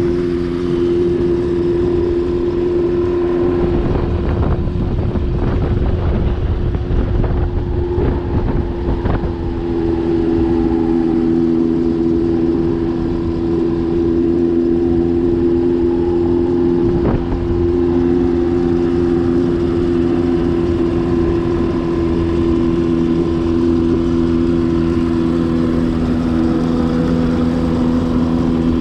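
An engine running steadily at an even speed, with a few short knocks over it.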